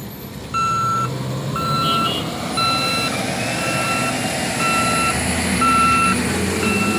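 A heavy vehicle's reversing alarm beeping about once a second, starting about half a second in, over the rumble of its running engine.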